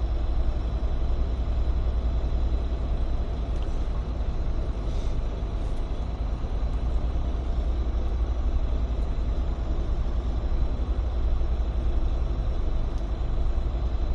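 Freightliner semi-truck's diesel engine running steadily with a deep, even rumble, heard from inside the cab, with a few faint clicks about four to six seconds in.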